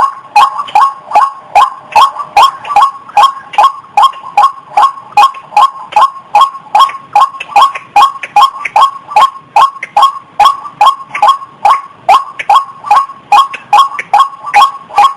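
Female rail of the kind called ruak-ruak or ayam-ayaman calling in breeding condition: short, sharp notes repeated evenly at about two to three a second without a break, a call used to lure the birds.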